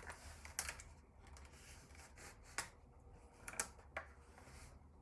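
Faint, scattered clicks and light scrapes of a screwdriver working on plastic and metal computer parts during disassembly, about half a dozen separate clicks.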